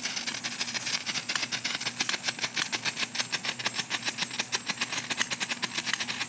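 Strobe firework going off: a rapid, even crackle of sharp pops, about seven a second, one with each flash.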